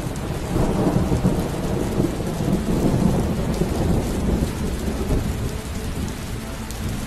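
Storm noise: a loud, low rumbling roar of strong wind gusts rising and falling unevenly, with heavy rain.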